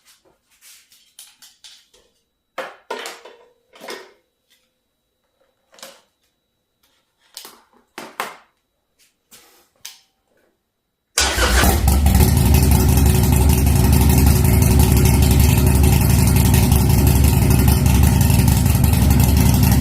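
A few short clicks and knocks of handling, then about 11 seconds in a Harley-Davidson Sportster 48's V-twin, jump-started from a lithium jump pack after a flat battery, comes in loud and runs steadily through a Two Brothers Racing Comp-S exhaust.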